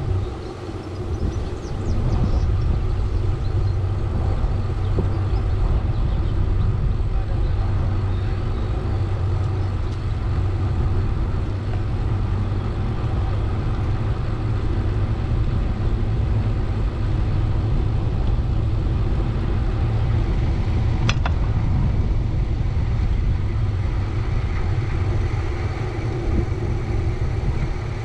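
Steady low rumble of road and traffic noise heard while riding through town streets, with one sharp click about three-quarters of the way through.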